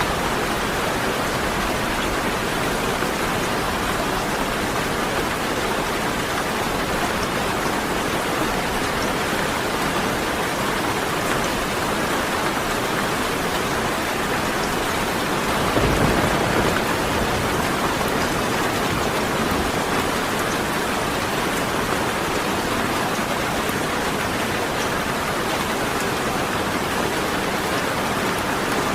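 Steady rain falling, an even hiss with no break. About halfway through comes one brief low rumble lasting about a second.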